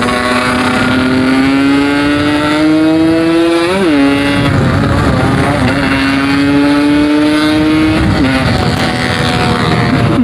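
Yamaha RX-King two-stroke single, bored out to 150cc, accelerating hard under a rider. The engine pitch climbs steadily, spikes and drops at a gear change about four seconds in, climbs again, and falls at another shift about eight seconds in, over wind and road noise.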